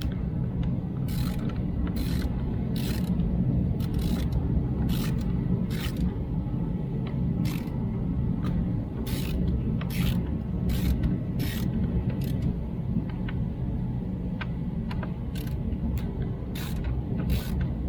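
Hand ratchet clicking in short, irregular strokes while a fastener is loosened, over a steady low hum.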